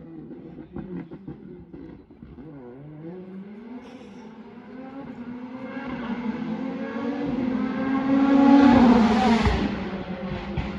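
Hyundai i20 WRC Plus rally car's turbocharged four-cylinder engine revving hard as it approaches, the pitch climbing and the sound growing louder. It is loudest about eight to nine seconds in as the car passes, then the pitch drops sharply and the sound falls away.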